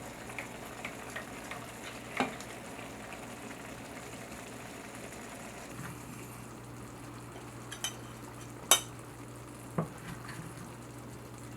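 Radish greens sizzling as they are stir-fried in a pan, with a few sharp clicks of a utensil against the pan, the loudest about three-quarters of the way through.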